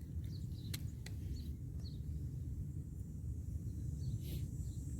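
Outdoor ambience: a steady low rumble, two sharp clicks about a second in, and a few faint high chirps.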